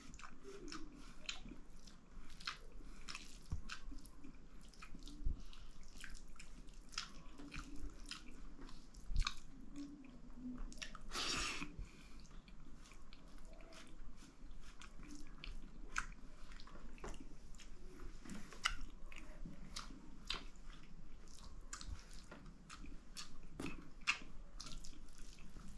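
A person chewing and biting a mouthful of dal bhat with pickle: rapid, irregular wet mouth clicks and smacks, with a short, louder rush of noise about eleven seconds in.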